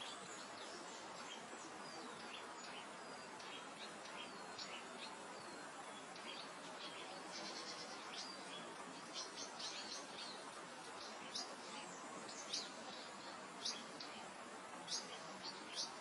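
Gentle steady wind over open grassland, with many small birds giving short high chirps and a few brief buzzy trills; the chirps grow louder and come more often in the second half.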